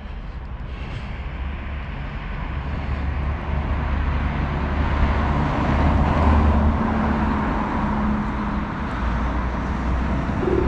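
Wind buffeting the microphone and rumble from a moving electric scooter ride, growing louder over the first several seconds and then holding steady.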